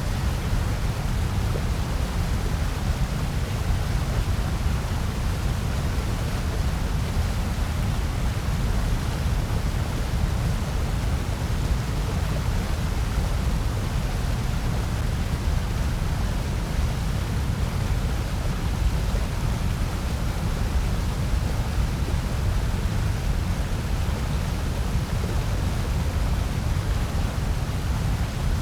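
Steady, unchanging synthetic white noise played as a sleep and focus masking track: a constant hiss over a heavier low rumble, with no events or changes.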